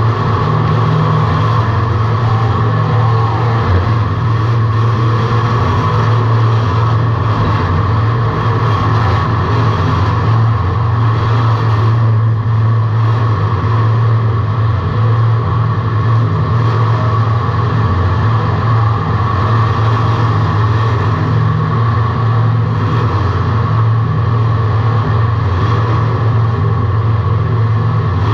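Car engine running loud and fairly steady, with a constant low drone and mechanical noise, heard from inside the car's cabin.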